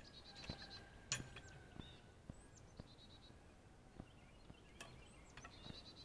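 Near silence with faint birdsong: short chirps and quick trills, with a few faint knocks.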